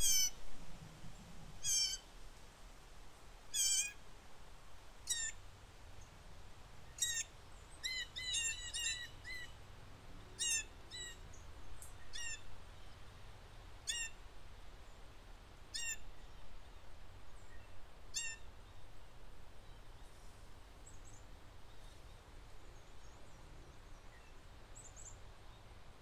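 Songbird calls: short, clipped notes repeated every second or two, with a quicker run of several about a third of the way in. They thin out and stop about three-quarters of the way through, leaving a low wind rumble.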